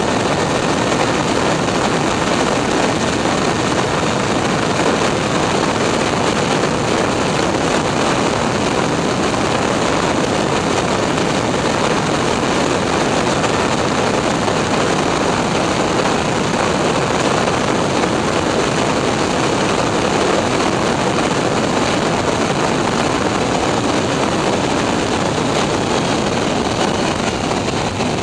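Steady, loud rush of airflow and jet engine noise inside a Boeing 747's landing-gear bay, with faint steady whining tones.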